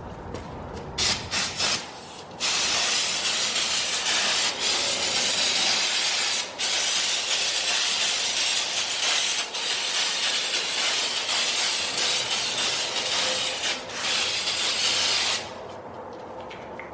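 Pressurised jet hissing against the freshly sanded aluminium wheel: a few short bursts about a second in, then one long steady blast with brief breaks that cuts off suddenly near the end.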